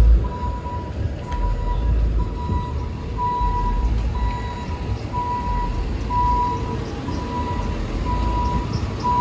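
Electronic beeper sounding a steady high beep about once a second, over the low rumble of street traffic.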